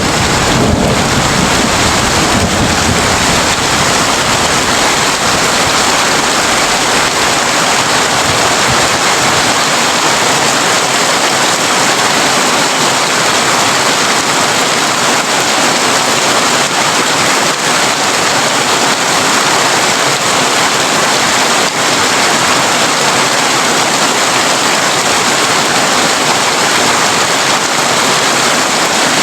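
Heavy rain falling on a tin roof, a steady dense hiss. A low rumble fades out in the first few seconds.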